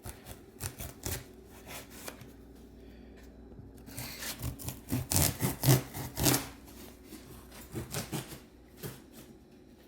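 A cardboard shipping box being handled and opened by hand: scattered scrapes, rustles and knocks, busiest and loudest from about four to six and a half seconds in.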